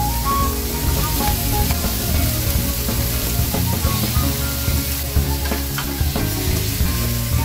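Carrot sticks frying in oil in a nonstick pan make a steady sizzle, with sliced chayote added partway through. A few light clicks are scattered through the sizzle.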